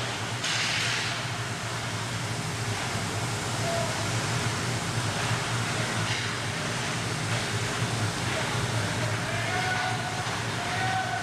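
Ice hockey rink ambience during play: a steady hiss over a low hum, with a brief scraping burst about half a second in and faint distant calls near the end.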